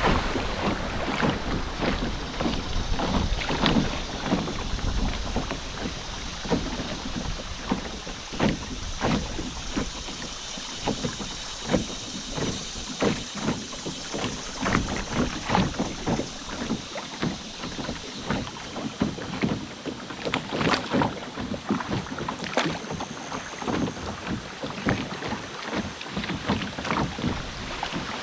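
River water lapping and trickling around a canoe, with many small irregular splashes and drips. A low rumble in the first several seconds fades out.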